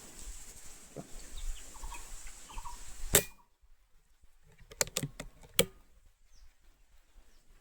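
Faint short bird chirps, then a single sharp loud click about three seconds in, followed by a few more sharp clicks a couple of seconds later.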